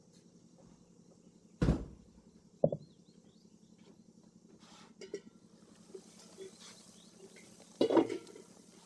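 Kitchenware knocking: a few sharp clacks, two about a second apart early on and one louder one near the end, with small ticks between, over a faint steady hum.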